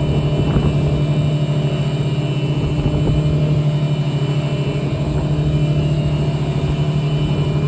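Motorboat engine running steadily at cruising speed, a constant low hum with a faint higher whine over it.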